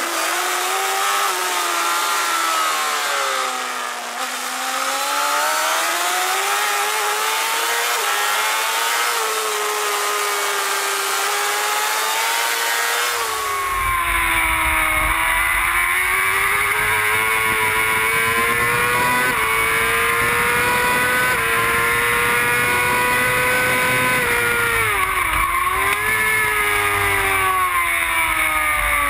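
J-GP2 600cc racing motorcycle engine at high revs, its pitch climbing and dropping again and again through acceleration, gear changes and braking for corners. About 13 seconds in the sound changes suddenly and a deeper rumble joins the engine note.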